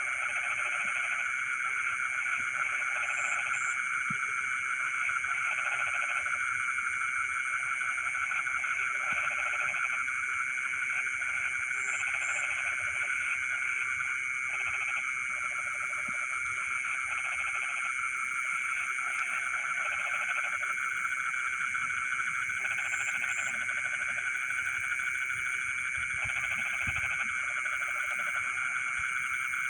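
Night chorus of frogs in a rice field: croaking in pulsed bouts about a second long, repeating every second or two, over a steady high-pitched trilling chorus.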